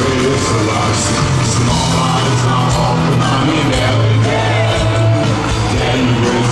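Rock music played by a full band, with guitar, a steady bass line and drums with cymbal hits.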